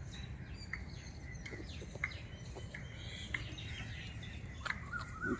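Faint birds chirping, short scattered calls about once a second, over a steady low background rumble.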